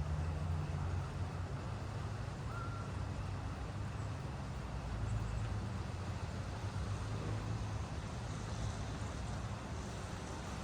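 Steady rain falling, an even hiss, over a continuous low rumble. A brief single high chirp comes about two and a half seconds in.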